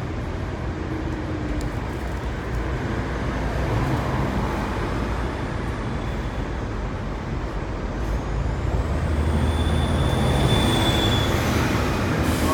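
Hong Kong double-decker tram running along a city street, a steady rumble with a low hum. From about eight seconds in it gets louder and a high squeal rises and then falls in pitch.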